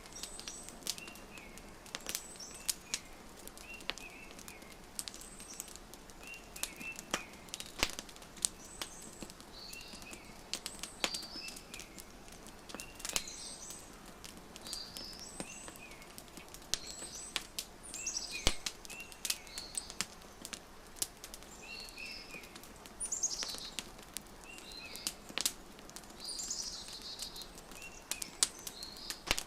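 Wood fire crackling, with sharp irregular pops, while small birds chirp in short repeated phrases in the background.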